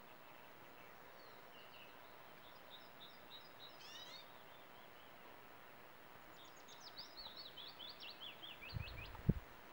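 A songbird singing over faint outdoor background noise: a short chirping phrase about four seconds in, then a longer run of quick descending notes from about six and a half seconds. Near the end come low rumbling bursts and a sharp knock.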